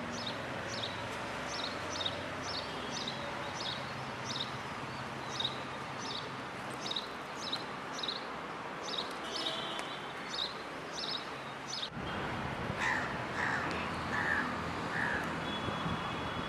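Birds calling over steady outdoor ambience: a high, short chirp repeated about twice a second. About twelve seconds in the background changes abruptly, and a run of about five lower calls follows, half a second apart.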